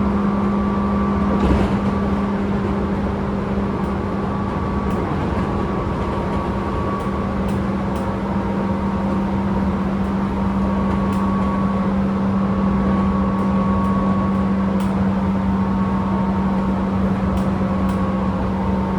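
Tobu 10000 series field-chopper electric train heard from inside a motor car while running: a steady hum with one strong constant tone, fainter higher tones fading in and out, and occasional light clicks.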